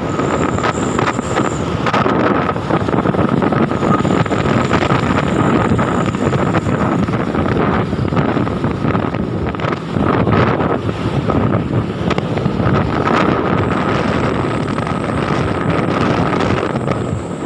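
Truck driving, its engine and road noise running steadily under heavy wind buffeting the microphone, with a thin steady whine throughout.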